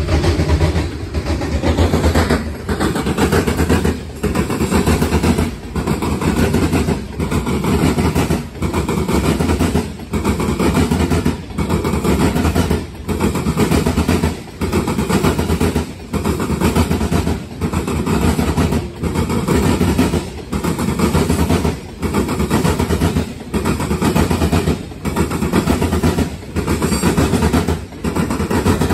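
A freight train of loaded covered grain hopper cars rolling past: a steady rumble and clatter of steel wheels on rail that dips briefly about every second and a half as the cars go by.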